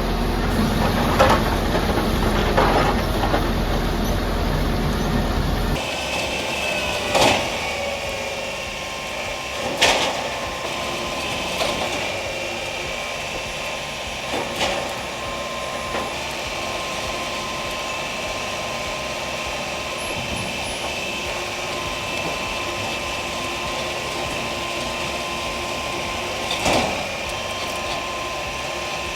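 Bark-peeling machinery running: a heavy low drone for the first few seconds, then a steady machine hum with a few sharp knocks.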